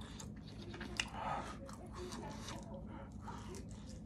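A person chewing and biting into pan-fried dumplings, with small mouth clicks and one sharp click about a second in.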